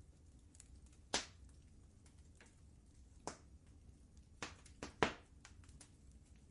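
Wood fire crackling in a fireplace: scattered sharp pops and fainter ticks, a strong one about a second in and the loudest near five seconds, over a low steady rumble.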